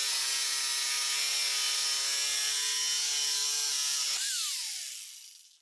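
Electric power tool cutting through a wooden roof beam, its motor running at a steady high pitch. About four seconds in it is switched off and winds down, the whine falling in pitch as it fades out.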